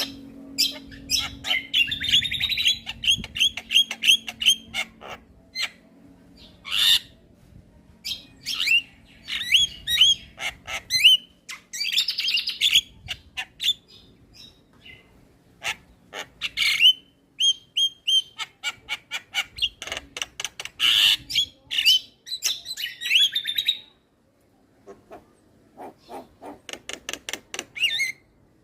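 Javan myna singing and chattering: bursts of chirps, squawks and fast runs of repeated notes, broken by a short pause, then a rapid string of clicking notes near the end.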